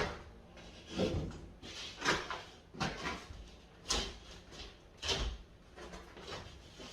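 A sheet of drywall being handled and set against a plaster wall: a string of separate knocks and bumps, about one a second.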